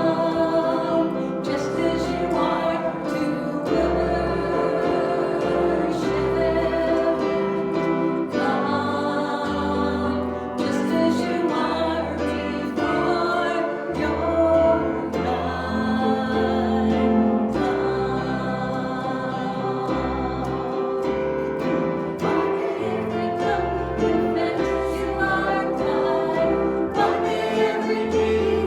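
Church worship music: a group of voices singing with instrumental accompaniment, over a bass line that changes note every second or two.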